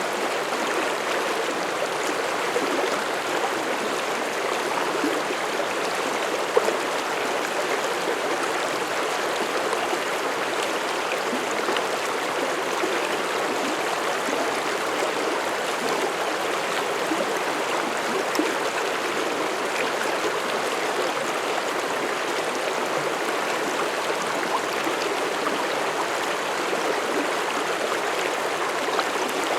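Mountain stream flowing over rocks: a steady, even rushing and babbling of water, with one brief louder splash about six and a half seconds in.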